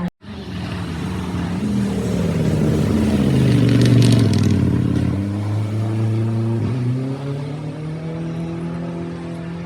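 Rally car engine going past. The engine note drops as the car slows, peaks in loudness about four seconds in as it passes, then climbs again in steps as it accelerates away through the gears.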